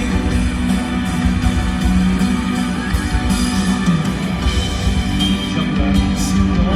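Live rock band playing an instrumental passage with electric guitar and a heavy drum and bass backing, no singing.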